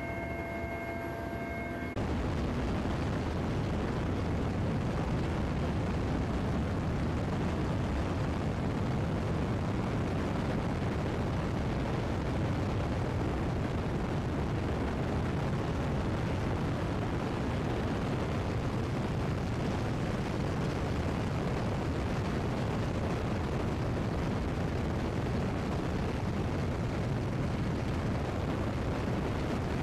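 Twin-turbine Mi-8 helicopter in flight: loud, steady noise, strongest in the low end. About two seconds in, a set of steady tones gives way to a sudden jump to this louder, even noise.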